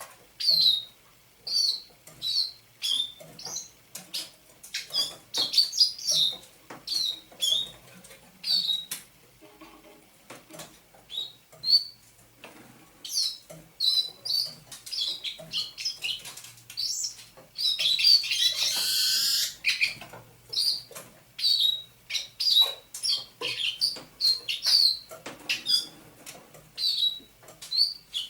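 Thrush nightingale (eastern nightingale) singing a run of short clicking and whistled notes in quick phrases. About eighteen seconds in it gives a loud, harsh, rasping phrase lasting about two seconds.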